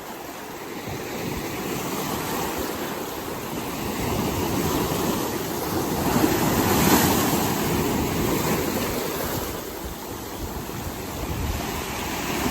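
Waves of a rough sea churned up by a typhoon, breaking and washing in as a steady roar of surf that swells to its loudest about halfway through, then eases.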